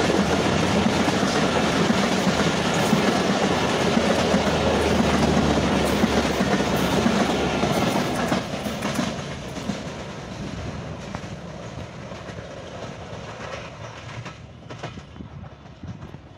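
Bangladesh Railway broad-gauge passenger train passing close by: a steady rumble with the clickety-clack of coach wheels over rail joints. It starts to fade about halfway through as the last coaches go by, leaving a few fainter wheel clacks near the end.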